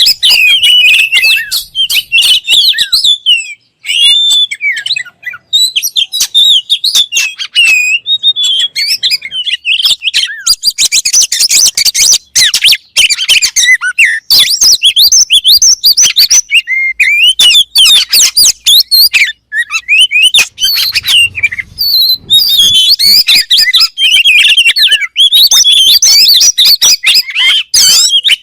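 Oriental magpie-robin (kacer) singing loudly in a fast, almost unbroken stream of varied whistles and chirps, with quick rising and falling notes and only brief pauses.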